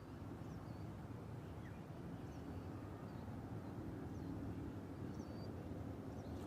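Open-air background: a low, steady rumble with a few faint, short bird chirps scattered through it.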